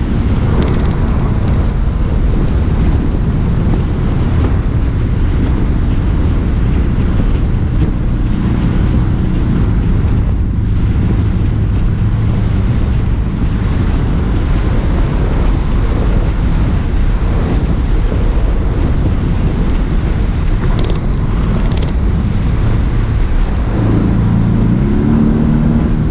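Porsche 718 S's turbocharged flat-four engine pulling the car along a road, under heavy wind and road noise. About two seconds before the end the engine note climbs briefly as it revs.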